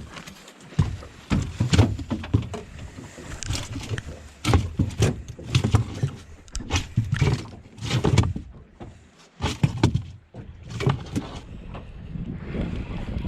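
A run of irregular knocks and thumps from handling in a small fishing boat. A steady rush of wind on the microphone takes over near the end.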